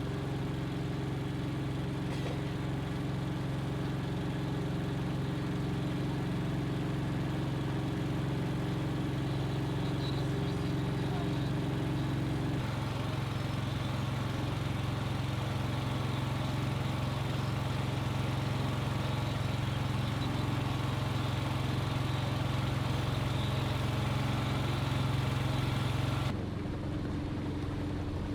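An engine running steadily with a constant low hum. The tone shifts slightly about halfway through, and near the end the sound changes suddenly and the hiss drops away.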